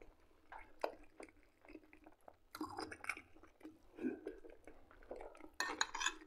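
A man chewing a mouthful of buckwheat and liver patty close to the microphone, in short, quiet bouts of soft mouth sounds, louder near the middle and again near the end.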